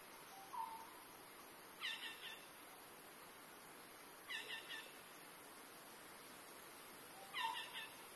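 A forest bird repeating a quick run of three short notes three times, about two and a half seconds apart, with a lower single call twice, over a steady high-pitched hiss.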